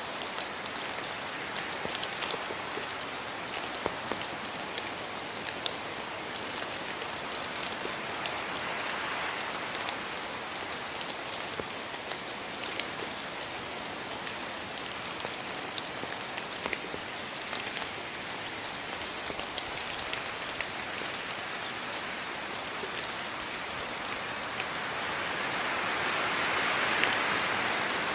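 Steady rain falling, a constant hiss dotted with many sharp drop taps on hard surfaces. It swells louder for a few seconds near the end.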